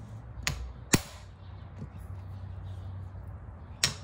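Hammer striking a hand impact screwdriver to break loose the Phillips screws holding a dirt bike's half engine case: sharp metallic knocks, two about half a second apart near the start and one more near the end.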